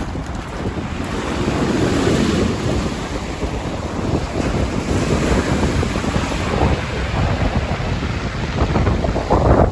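Wind buffeting the microphone in uneven gusts over the steady wash of sea waves on a beach.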